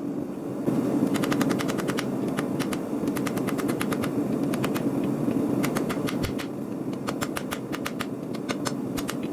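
Hammer striking hot knife steel on an anvil in quick runs of sharp, ringing blows with short pauses, over a steady rushing noise.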